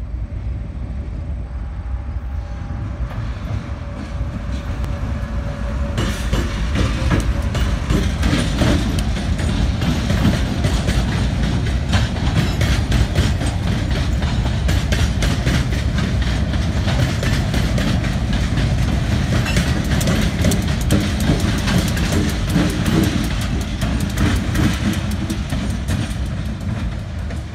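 Freight train of gondola cars rolling past, steel wheels clicking over rail joints over a steady low rumble, with the clicking building up about six seconds in. The diesel locomotive pushing at the rear of the push-pull train comes by near the end.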